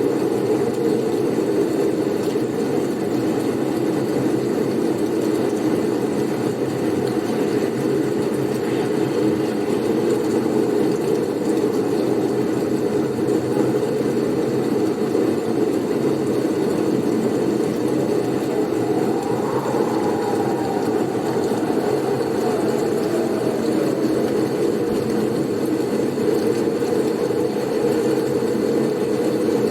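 Steady, low rushing blizzard wind, with a faint whistle that rises and falls about two-thirds of the way through.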